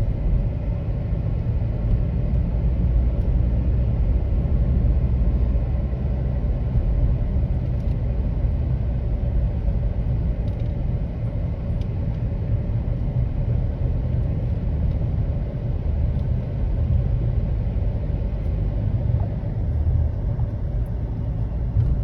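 Car driving, heard from inside the cabin: a steady low rumble of engine and tyre noise that holds even throughout.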